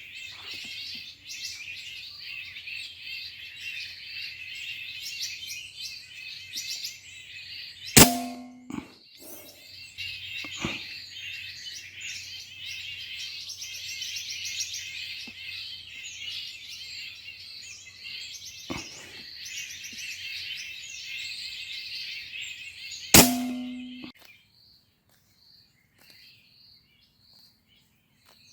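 A flock of birds chattering and calling all together, broken twice by the sharp crack of a PCP air rifle shot, each with a brief ringing tone, about fifteen seconds apart, with a couple of lighter clicks in between. Right after the second shot the chatter stops almost at once, leaving only a few faint calls: the flock has been flushed.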